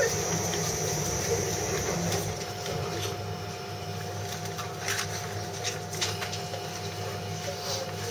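Unusual fault noise from an S-set electric train carriage: a rapid, stuttering mechanical rattle over a steady hum, like a motorbike engine stalling. A high hiss fades over the first two seconds, and a few sharp clicks come near the middle and end.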